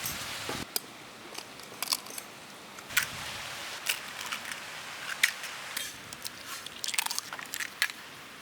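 Boiled whole chicken being pulled apart by hand, meat torn away from the bones, with scattered small cracks, snaps and clicks at irregular intervals.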